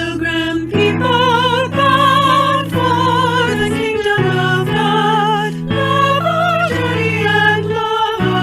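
A voice singing with wide vibrato over sustained keyboard chords, church music in a worship service.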